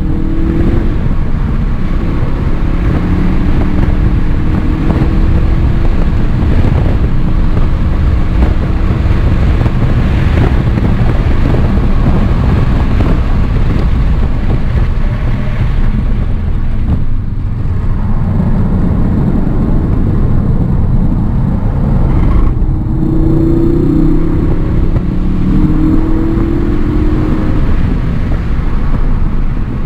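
Ford Focus engine under hard acceleration, heard from inside the cabin with heavy road and wind noise. Its note rises as it gains speed, drops away as it lifts off to brake about halfway through, then climbs again near the end.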